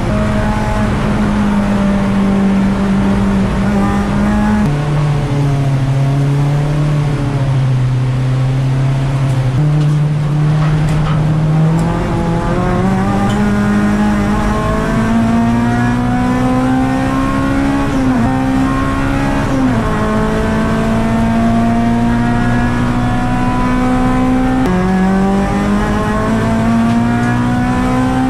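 Honda Civic Type R (EP3) race car's 2.0-litre four-cylinder engine heard from inside the stripped cabin, working through the gears: the pitch climbs slowly under acceleration and steps down and up at the gear changes, with drops in revs about five seconds in, about twenty seconds in and right at the end.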